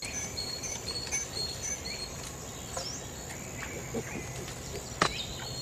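Outdoor ambience of birds chirping in short scattered calls over a steady background hiss and a thin high tone, with a sharp click about five seconds in.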